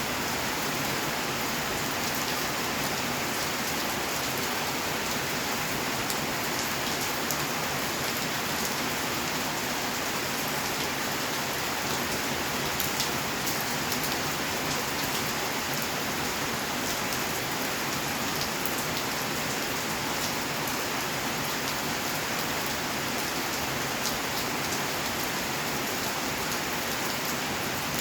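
Steady rain falling, a constant hiss with many small drops ticking and pattering on surfaces close by.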